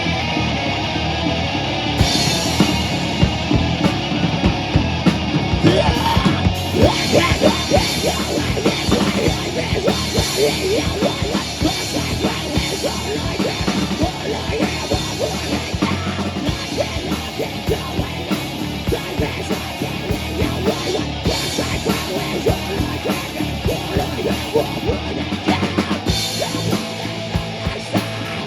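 Live rock band playing loud, with guitar and a drum kit; the drums come in hard about two seconds in and keep a fast beat.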